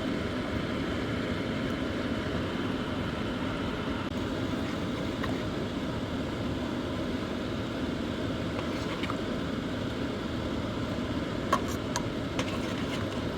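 Sweet soy sauce with chicken and meatballs boiling in a pot on the stove, a steady bubbling hiss, with a few light clicks near the end.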